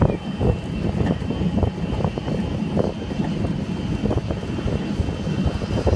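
Small motorbike with a sidecar running along a street, heard from the passenger's seat: a steady engine drone with road noise, many small rattles and knocks, and a faint steady whine.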